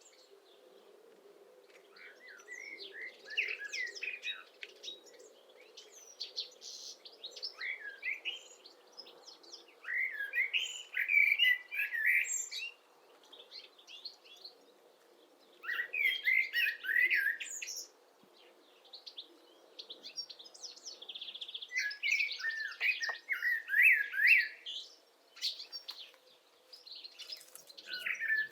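Songbirds singing in phrases of rapid, twittering chirps, each phrase lasting a few seconds with short pauses between.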